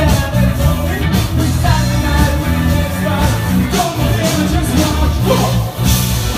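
Loud live band music with a steady beat and heavy bass, with some singing.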